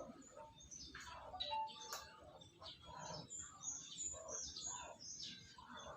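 Small birds chirping, with many short high calls overlapping one another.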